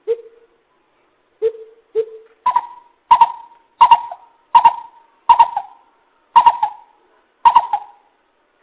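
Coucal's deep hooting call, used as a lure call: three low, spaced hoots, then a run of seven louder, higher hoots coming a little under a second apart.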